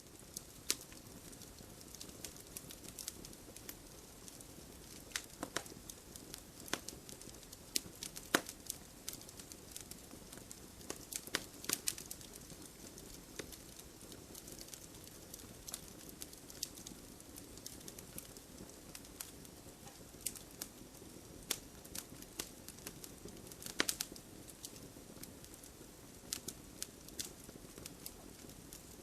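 Wood fire crackling in a fireplace: irregular sharp pops and snaps from the burning logs over a soft, steady hiss of flame, with a few louder pops about a third of the way in and again past the three-quarter mark.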